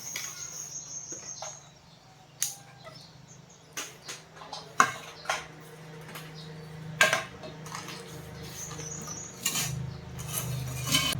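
Scattered metallic clinks and knocks of tools and parts being handled during a welding-machine repair, over a steady low hum that grows louder in the second half.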